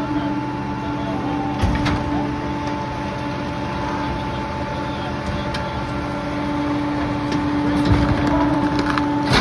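Garbage truck's diesel engine held at a steady raised speed, with a few sharp clanks and cracks, the loudest around two seconds in and again near the end.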